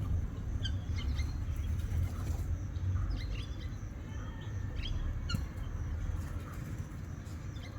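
Small birds chirping, with short high calls scattered through, over a steady low rumble.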